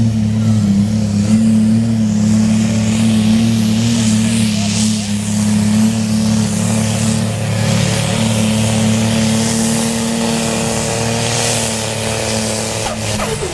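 Competition pulling tractor's engine running flat out at high, steady revs during a pull, with a loud hissing rush above it. Its revs start to drop near the end.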